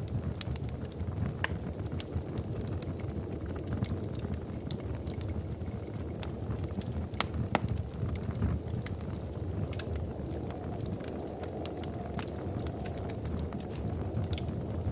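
Wood fire crackling in a fireplace: a steady low rumble of burning with frequent irregular sharp pops and snaps, one louder snap a little past seven seconds in.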